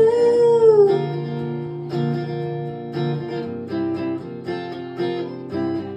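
Acoustic guitar strumming slow chords, about one a second, as a live song winds down. A sung note is held and fades out in the first second.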